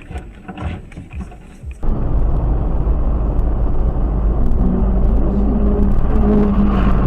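Car driving, with engine and road noise, steps up abruptly about two seconds in to a loud, steady low rumble with a faint hum over it.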